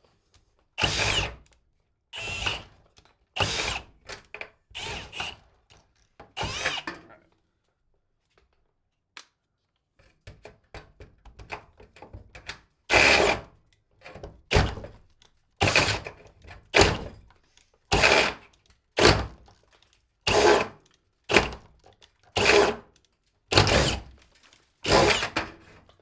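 Cordless drill with an auger bit, run in short repeated bursts about one a second, with a few seconds' pause about a third of the way in.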